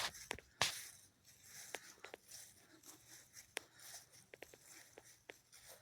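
Faint footsteps and scattered small clicks and rustles, with two brief louder rustles in the first second.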